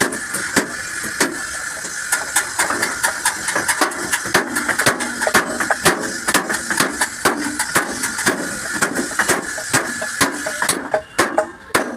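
Hammer blows on truck-cab sheet metal during denting work, struck rapidly and unevenly, several strikes a second.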